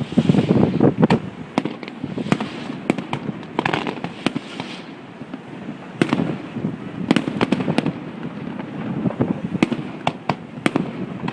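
Fireworks display: a rapid, irregular run of sharp cracks and bangs over a continuous rumble, busiest in the first second or so, recorded on a cell phone's microphone.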